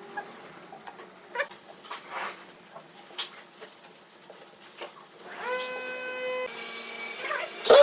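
Workshop handling noise: scattered light taps and knocks. Just past five seconds in, a small electric motor whirs up to speed and runs steadily for about a second. A sharp knock comes at the end.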